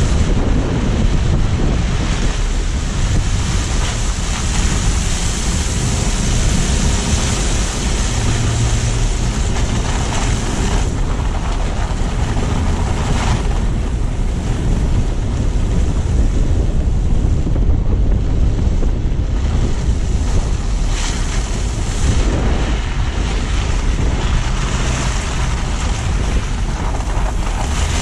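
Steady rush of wind buffeting a low-mounted action camera's microphone on a moving car, over deep rumbling road and tyre noise from driving on snowy streets.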